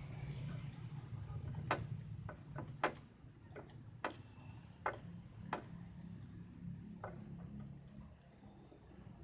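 Old motorcycle engine idling with a low pulsing rumble, while eight or so sharp clicks come at irregular intervals over it.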